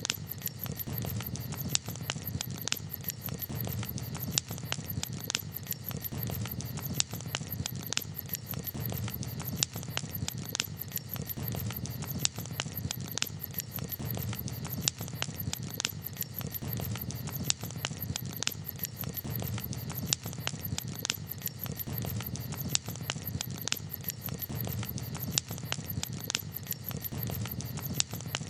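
Wood campfire crackling: frequent irregular sharp pops and snaps over a steady low background.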